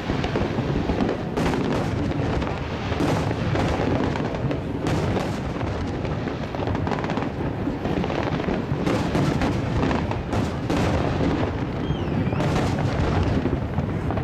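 Fireworks display: aerial shells bursting in a dense, unbroken barrage of overlapping booms and crackles, with a brief falling whistle near the end.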